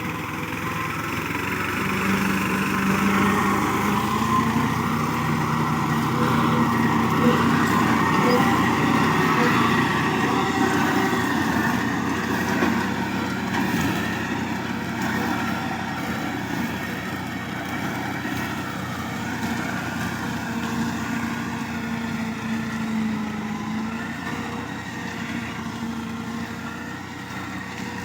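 Tractor engine running steadily while driving a mulcher, a continuous mechanical drone that grows a little louder over the first few seconds and eases toward the end.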